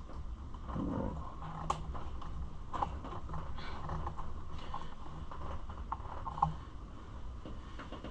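Scattered light clicks and knocks of parts and tools being handled while a dirt bike is taken apart, over a steady low rumble.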